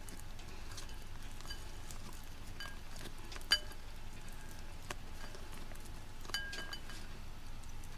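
A few light clinks of a utensil against a bowl, spread out and each ringing briefly, with the sharpest one about three and a half seconds in. It sounds like thick soup being handled in the bowl, over a low steady hiss.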